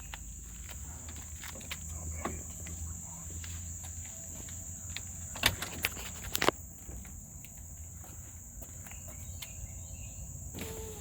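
Steady high-pitched insect chirping, with two sharp clicks about halfway through.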